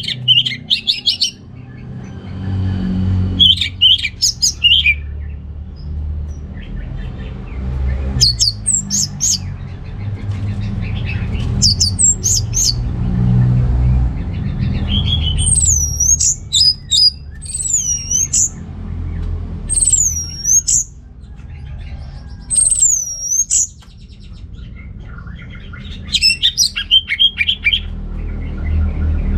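Orange-headed thrush singing loud, varied phrases of rapid high notes separated by short pauses, with a run of four repeated swooping whistles in the middle. A low rumble runs underneath.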